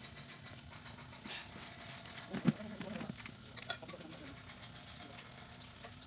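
A bird cooing, low and brief, a couple of times about halfway through. Under it are light clicks and rubbing from a cloth wiping a metal pressure gauge.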